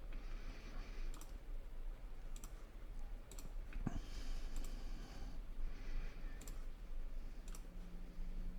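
Computer mouse clicking, about seven single clicks at irregular intervals of roughly a second, over a faint steady hum.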